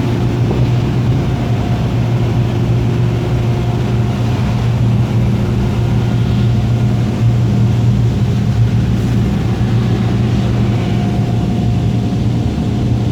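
Old-style car wash air dryers blowing steadily, heard from inside the vehicle as it passes under them. The top dryer units carry small rollers that touch the vehicle. The sound is a loud, even rush with a deep hum and a few faint steady tones.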